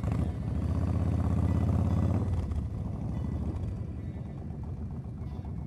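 Motorcycle engines running as a group of motorcycles moves off slowly. One engine runs loud and steady for the first two and a half seconds, then eases off into a lower, steady rumble.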